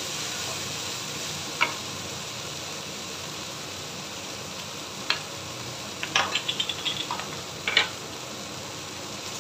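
Water spinach, dried shrimp and dried chilli sizzling steadily in a hot nonstick wok, with a few sharp clicks and a quick run of ticks between about six and seven seconds in.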